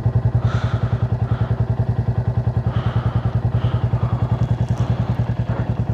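Motorcycle engine idling steadily, with an even, rapid pulse of about ten beats a second.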